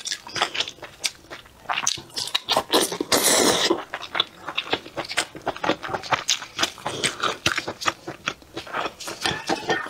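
Close-miked chewing of soft red-braised beef rib meat: many wet mouth clicks and smacks, with one longer, noisier slurp about three seconds in.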